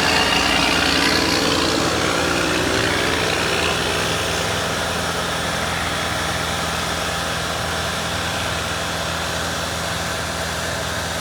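Boom lift engine running steadily while the basket is lowered at its 'rabbit' speed setting, which is still pretty slow.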